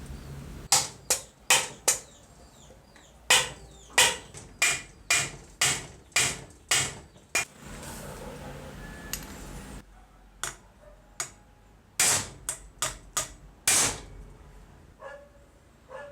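Repeated hammer blows in bursts: a quick run of four strikes, then about eight at roughly two a second, then after a pause another six, each a sharp knock with a brief ring.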